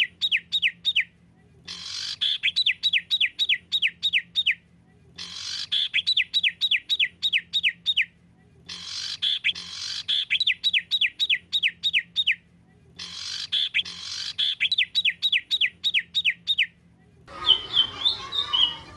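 Songbird masteran recording: a phrase of rapid whistled notes, each falling in pitch, played five times over with short silent gaps as a loop. Near the end it switches to a different, busier run of chirps over some background noise.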